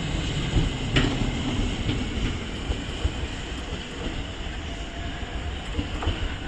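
E491 'East i-E' inspection train running out of the station, a steady rumble of wheels on rails, with a sharp clank about a second in and a few lighter clicks after.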